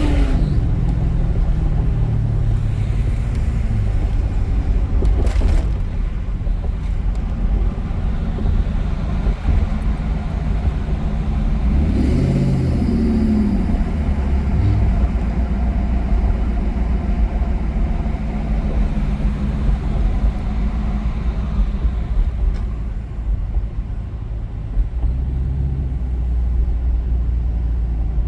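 Exhaust of a 1996 Mercury Grand Marquis's 4.6-litre V8 through a straight-piped single exhaust with no resonator and the rear catalytic converter deleted, running at low revs. It settles from a rev at the start, and is briefly revved up and back down about twelve seconds in.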